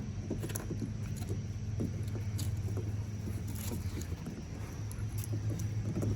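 A motor running with a steady low hum, with scattered light clicks and rustles over it.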